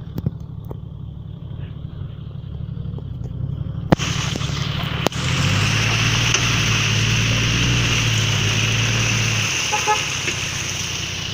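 Car engine running, then held at higher revs under load for about four seconds while towing a car stuck in mud, dropping back near the end. A sharp knock comes about four seconds in.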